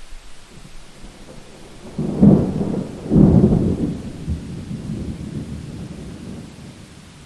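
Thunder over steady rain: a sudden clap about two seconds in, a louder one a second later, then a rolling rumble that slowly fades.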